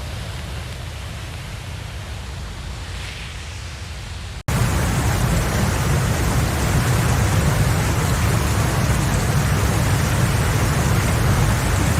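Steady rushing water noise, cutting sharply about four and a half seconds in to a louder, fuller stretch.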